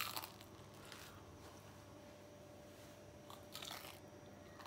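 Someone biting and chewing a piece of crisp, flaky-crusted spinach börek, the crust crunching faintly: a crunch right at the start and a couple more about three and a half seconds in.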